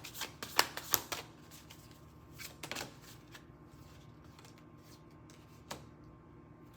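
Tarot cards being handled. A quick flurry of sharp card snaps and flicks comes in the first second or so, a few more around two and a half seconds in, and a single one near the end.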